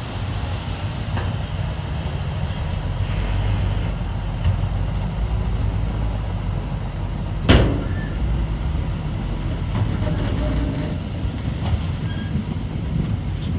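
Diesel engines of heavy earthmoving machinery running steadily, with one sharp metallic bang about seven and a half seconds in.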